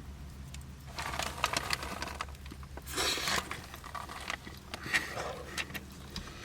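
Paper food wrapper rustling and crinkling as it is handled and opened, with scattered small clicks and scrapes over a faint low hum.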